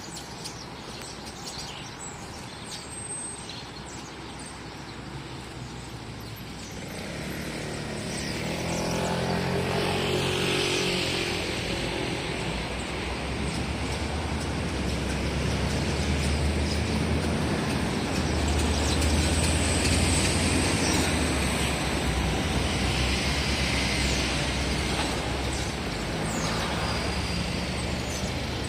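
A motor vehicle's engine rumble, growing louder about seven seconds in and then holding steady, with faint bird chirps early on.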